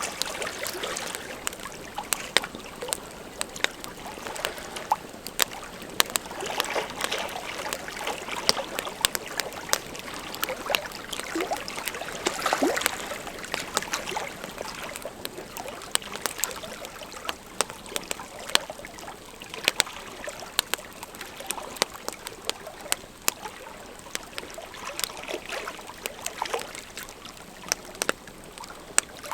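Big wood campfire burning, crackling with irregular sharp pops.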